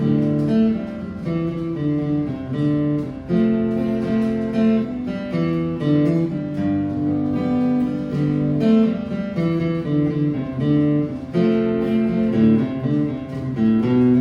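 Acoustic guitar strumming chords in an instrumental passage with no singing, the chord changing about every second.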